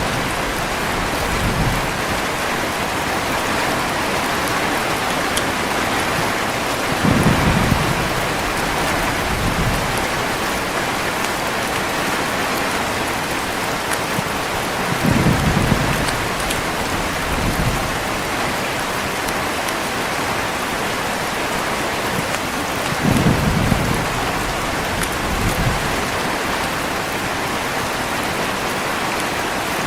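Heavy rain falling in a steady hiss, with short, low thunder rumbles about every eight seconds, three strong ones in all.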